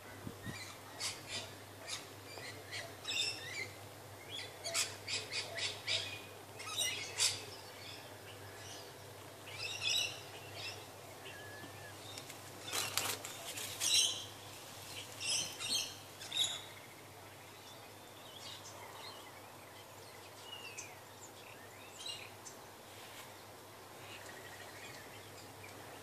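Birds calling in quick runs of short, high calls, busiest through the first two-thirds, then only a few faint calls near the end.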